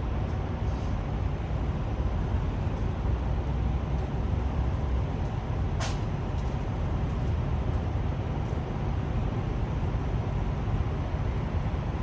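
Steady low hum of idling semi-truck diesel engines at a fuel island. A single sharp click comes about six seconds in.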